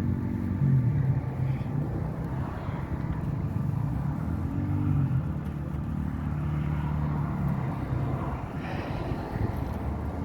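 Motorcycle engines running, their pitch rising and falling a few times as they rev and ride off.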